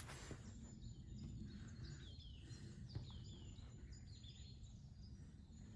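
Faint woodland birdsong: a series of short, quick falling chirps, over a low background rumble.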